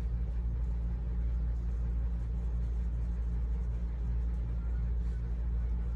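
A steady low hum and rumble that does not change.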